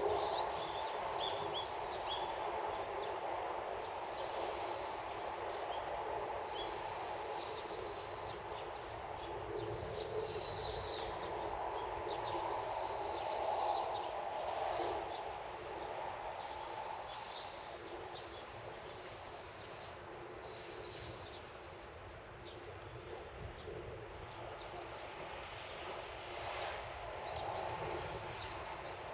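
A songbird giving short, high, arched calls, repeated every two to three seconds, over a steady outdoor background hiss.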